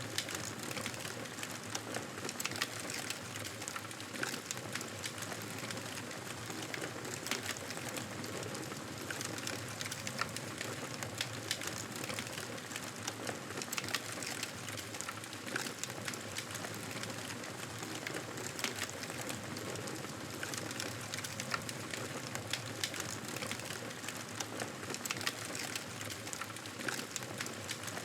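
Fire in a fireplace crackling steadily, with frequent irregular sharp pops and snaps over a continuous hiss.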